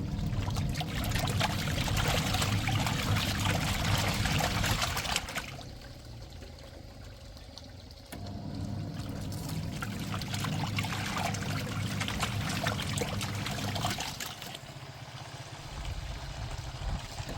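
Washing machine running with water sloshing in the drum over a low motor hum. It runs in two stretches of about five to six seconds each, stopping briefly in between and again near the end.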